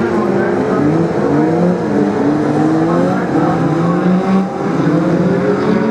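Several BriSCA F2 stock car engines racing around the oval, their overlapping notes climbing and falling in pitch as the cars accelerate and lift off.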